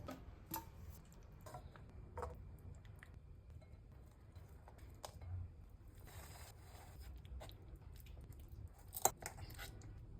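Faint scattered clicks and crunches over a low steady rumble, with one sharper click about nine seconds in.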